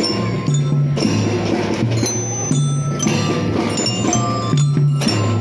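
Children's marching drum band playing a tune, with bright ringing mallet-bell notes over held low notes that change in a steady rhythm, and drum strokes.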